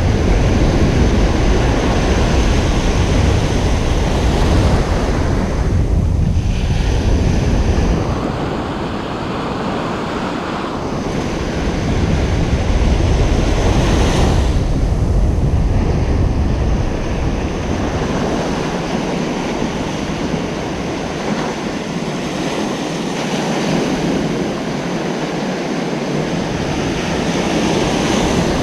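Ocean surf washing onto a beach: a continuous rush of breaking waves that swells and eases every few seconds. Wind buffets the microphone with a low rumble through the first several seconds and again in the middle.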